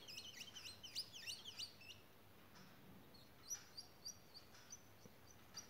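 Faint bird chirping in the background: a quick, even run of sweeping chirps for the first two seconds, then a few short, scattered chirps.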